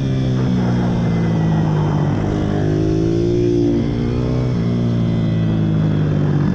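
Pit bike engines running hard, one holding a steady note while another rises in pitch as it accelerates, twice.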